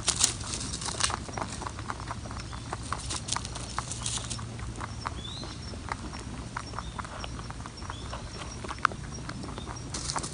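A rabbit chewing food taken from a hand: quick, irregular crisp crunches, with brief rustles a few times.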